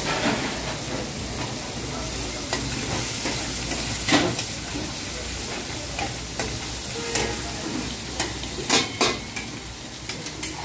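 Chicken pieces sizzling in hot oil in steel karahi woks over gas burners, a steady frying hiss. Metal ladles stirring the pans clank against the steel several times, loudest about four seconds in and twice in quick succession near the end.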